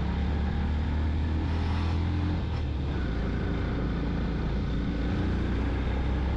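Yamaha FZ-X motorcycle's single-cylinder engine running steadily under way, with wind and road noise. The engine note changes about two and a half seconds in.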